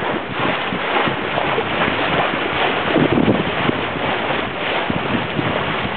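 Wind buffeting the microphone aboard a sailboat under sail: a steady rushing noise, with water washing past the hull mixed in.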